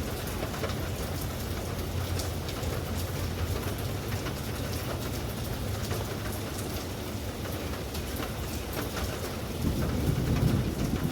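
Steady rain with fine pattering drops and a low thunder rumble, which swells louder near the end.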